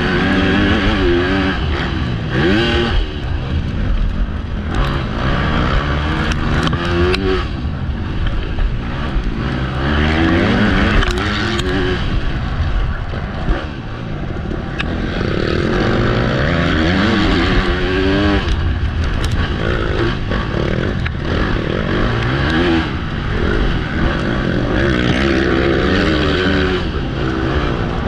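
MX2 motocross bike's engine revving up and down again and again as the rider accelerates, shifts and rolls off around the track, heard from the rider's own bike with heavy wind rumble on the helmet-mounted microphone.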